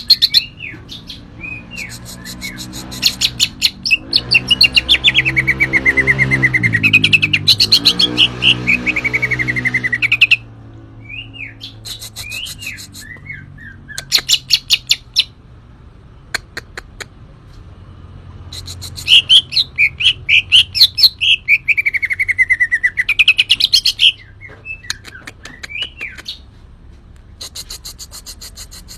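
Green leafbird (cucak ijo) singing loudly in a varied song of fast chattering trills and clear notes that sweep down and back up, in bursts separated by short pauses.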